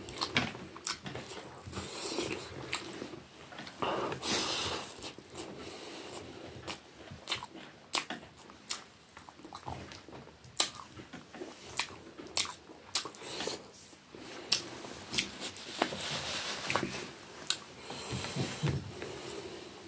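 Close-miked chewing of rice and fish eaten by hand, with irregular wet mouth clicks and smacks. Fingers work the rice on the plate.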